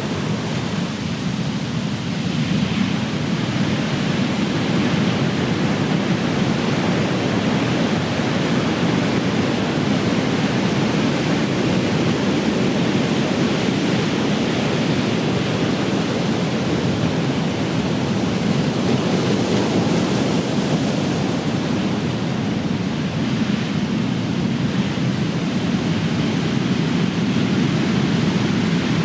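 Big ocean waves breaking on the shore, a continuous heavy wash of surf that swells and eases slowly over the stretch.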